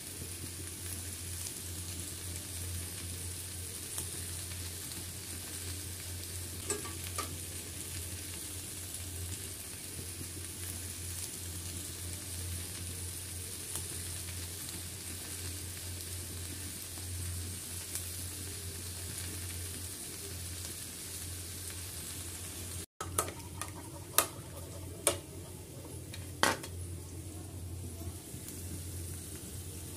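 Sliced okra sizzling as it fries in oil in a pan and is stirred, over a steady low hum. About three-quarters of the way through the sound cuts, and a few sharp clinks follow: a spoon knocking against a bowl as eggs are beaten.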